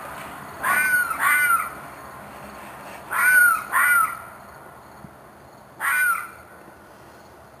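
An unseen animal's screeching calls at night: five short, harsh cries with a falling pitch, in two pairs and then a single call about six seconds in. The recordist takes it for an animal in distress and thinks it may be a fox or a coyote.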